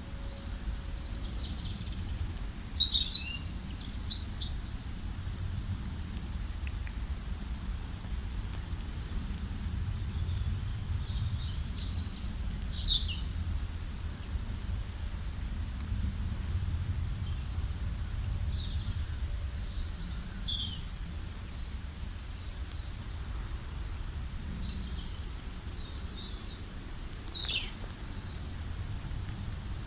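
Wild songbirds chirping and trilling in short, high phrases, with several louder bursts, over a steady low rumble.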